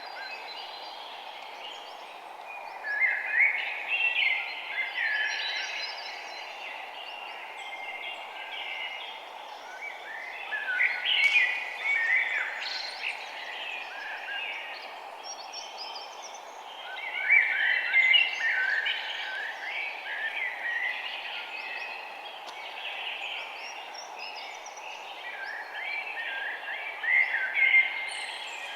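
Small birds chirping and twittering in four bouts of quick notes, the liveliest a few seconds in, around eleven seconds, around seventeen seconds and near the end. A steady background hiss runs beneath them.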